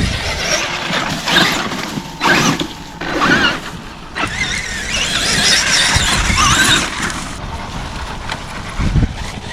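Traxxas X-Maxx RC monster truck's electric motor whining in bursts as it is driven, the pitch rising and falling with the throttle.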